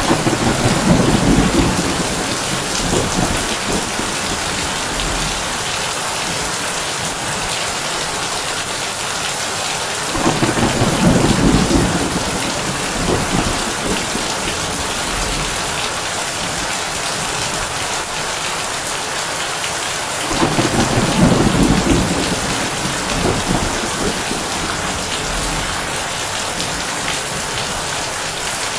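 Heavy rain falling steadily on a tin roof, with thunder rumbling three times, at the start, about ten seconds in and about twenty seconds in, each rumble swelling and fading over a few seconds.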